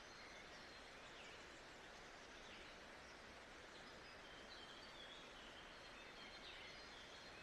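Faint nature-sounds ambience: a steady, even hiss with scattered short, high bird chirps.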